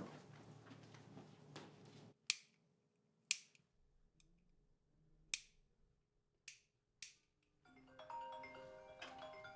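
Five sharp finger snaps, spaced irregularly over about five seconds, then music with bell-like mallet tones starts near the end.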